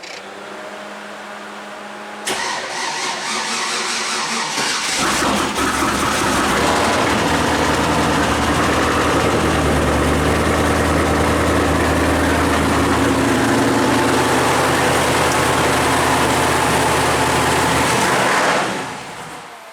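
Supercharged 6.0-litre Chevrolet LS V8 making its first start after an engine swap: the starter cranks from about two seconds in, the engine catches a few seconds later and runs loudly and steadily, then cuts out near the end.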